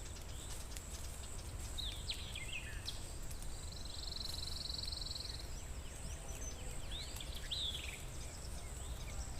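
Forest ambience: songbirds calling with short falling whistles and, about four seconds in, a rapid trill lasting about a second and a half, over a steady high-pitched insect drone and a low background rumble.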